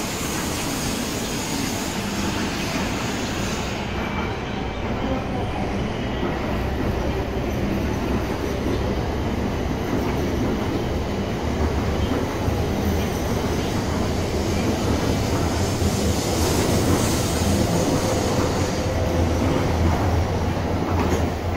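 Shinkansen bullet train moving at low speed along the platform track, a steady deep rumble that grows gradually louder through the second half.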